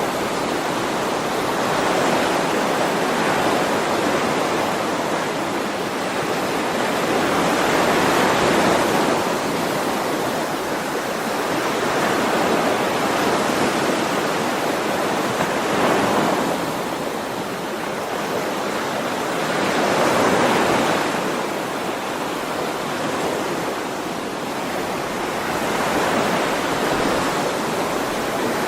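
Ocean waves breaking and washing on the shore, one after another, swelling and easing every few seconds.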